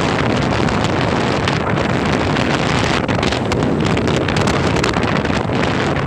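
Steady, loud wind rush on the microphone from travelling in a moving vehicle, with the vehicle's running noise underneath.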